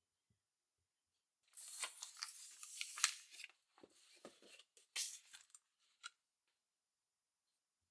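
Close handling noises: about two seconds of crackling rustle, then scattered rustles and a few sharp clicks.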